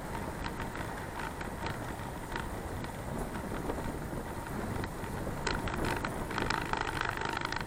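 Steady wind and road noise of a bicycle ride, with wind on the action camera's microphone. Near the end come scattered short clicks and creaks.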